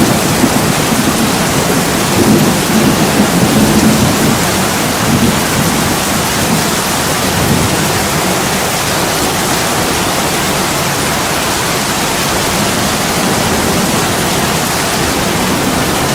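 Heavy rain pouring steadily onto an attic window. A low rumble swells under it about two seconds in and fades a few seconds later.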